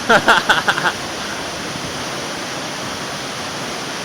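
Steady rushing of a waterfall, with a short burst of a man's voice in the first second.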